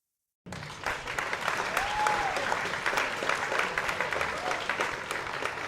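Crowd applause, many hands clapping, starting suddenly about half a second in, with a brief whistle about two seconds in.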